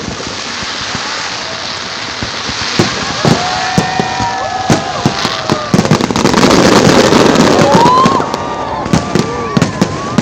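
Fireworks going off: repeated sharp bangs and crackling, with a loud, dense stretch of crackle from about six to eight seconds in, and several gliding whistle-like tones among the bangs.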